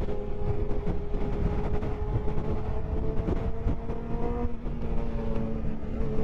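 Honda CBR600F's inline-four engine running at a steady pace, heard from onboard with heavy wind buffeting on the microphone. The engine note dips slightly about four and a half seconds in and climbs again near the end.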